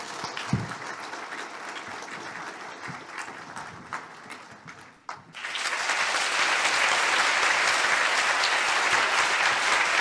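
Audience applauding, moderately at first, then suddenly much louder and steady from about five seconds in.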